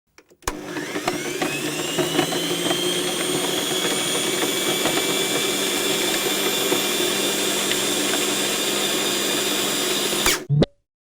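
Electric kitchen blender motor switched on, its whine rising as it spins up, then running steadily until it is switched off and stops abruptly near the end.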